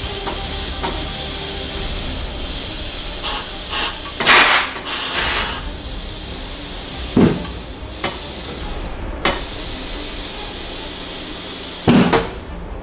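Compressed air hissing steadily from a tire inflator into a truck tire on its wheel, with a few short knocks, the loudest about four seconds in.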